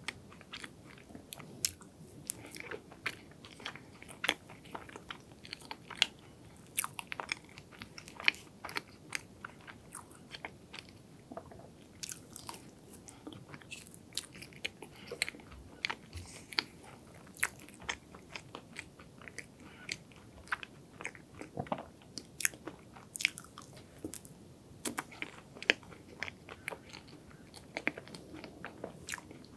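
Close-miked chewing of chocolate hazelnut cake with a crunchy chopped-hazelnut coating: many small, irregular crunches and sharp mouth clicks throughout.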